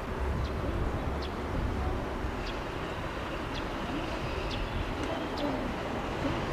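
Birds calling over a low steady rumble: low wavering calls and short high chirps about once a second.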